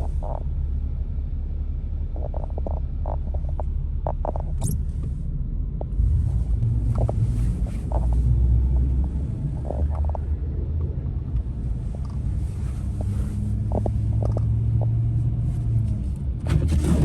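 Truck driving on snow-covered roads, heard from inside the cab: a steady low engine and road rumble that grows louder about six seconds in, with a short rush of hiss near the end.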